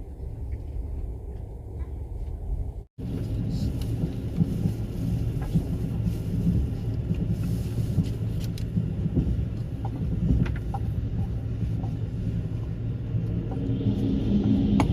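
Passenger train running: a steady low rumble with scattered clicks. It cuts out briefly about three seconds in and comes back louder and brighter.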